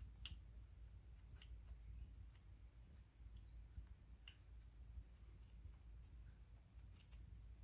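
Sparse light clicks of metal parts being handled as the injector's hold-down clamp is refitted, with one sharper click about a third of a second in.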